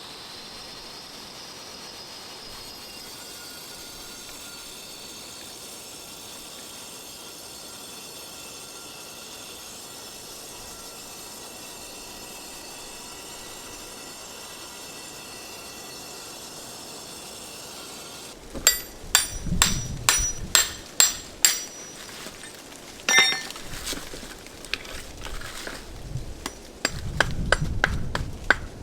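Hand hammer striking a steel chisel to dress stone: sharp, ringing metallic blows about two a second, starting about two-thirds of the way in. Before the blows there is only a steady, faint hiss.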